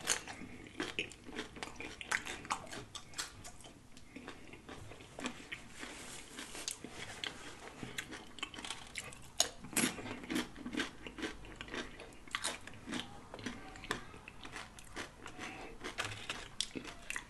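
A person chewing and crunching tortilla chips from loaded shrimp nachos, with many sharp, irregular crunches spread throughout.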